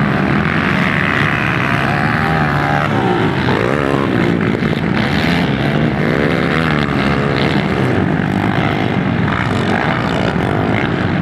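Motocross dirt bike engines revving hard as the bikes race, the pitch sweeping up and down as the throttle opens and closes.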